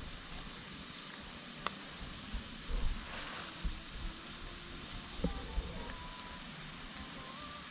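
Wood campfire burning: a steady hiss with scattered crackles and sharp pops, the clearest about a second and a half in and again just past five seconds.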